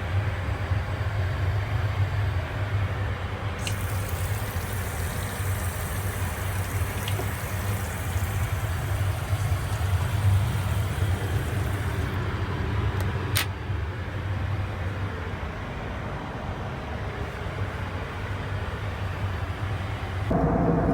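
Steady rumble and airflow hiss of an Airbus A320neo cabin. A brighter hiss rises over it for several seconds, and there is one sharp click later on.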